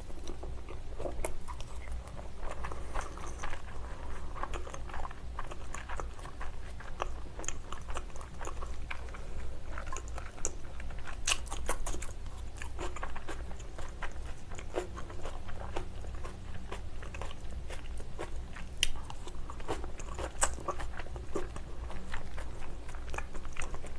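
Close-miked chewing of raw salmon sashimi: soft, wet mouth clicks and smacks, irregular and continuous.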